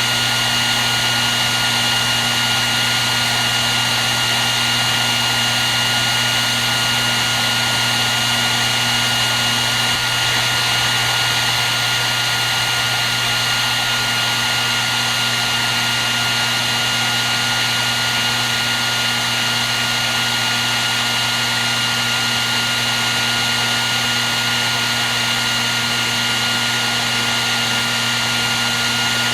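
Hair dryer running steadily: an unbroken rush of blown air with a steady whine from its motor and fan.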